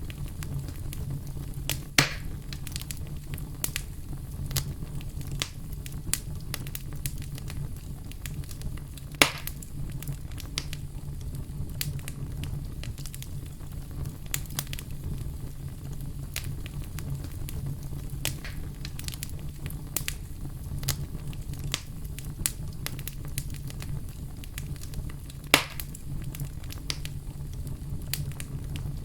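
Wood fire crackling, with a steady low rumble of flame under a constant scatter of small crackles. Three louder sharp pops stand out: about two seconds in, about nine seconds in, and near the end.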